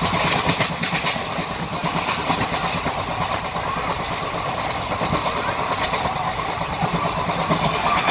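Indian Railways express train running, heard from inside a passenger coach: a steady rumble of wheels on the rails with constant rattling and clatter.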